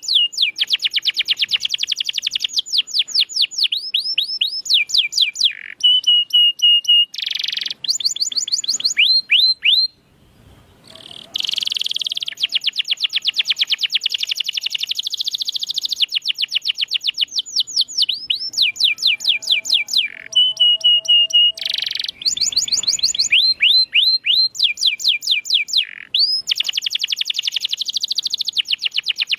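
Domestic canary singing a loud, continuous song: rapid trills of repeated falling notes, broken by a few held whistled notes and a brief pause about ten seconds in.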